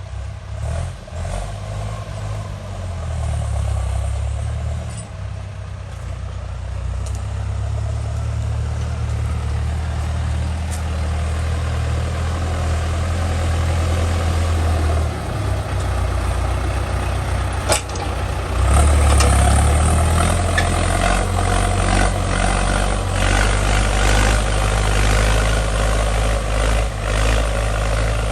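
Ford 6600 tractor's three-cylinder diesel engine running steadily under load while plowing wet, sandy mud. A sharp click comes about two-thirds of the way in, and the engine gets louder just after it.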